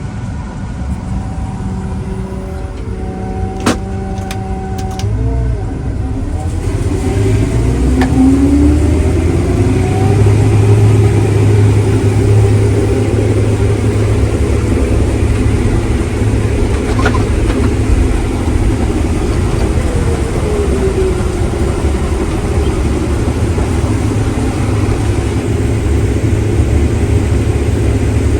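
Heavy diesel engine of a farm vehicle running, rising in pitch as it picks up speed about seven seconds in, then holding a steady drone.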